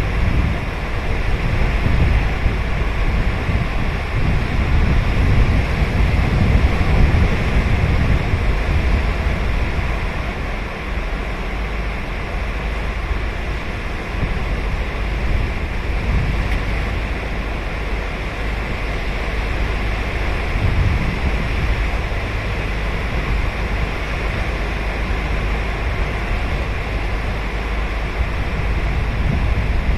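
Ocean surf breaking and washing on a sandy beach, a steady rushing noise that swells and eases slowly, with wind rumbling on the microphone.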